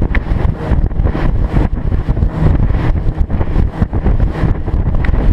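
Strong wind buffeting the microphone on a small boat in rough, choppy water: a loud, gusty rumble.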